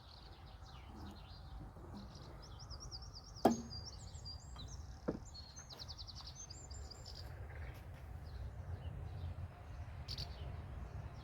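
Small birds chirping and trilling over a steady low background rumble, with one sharp knock about three and a half seconds in and a lighter knock about a second and a half later.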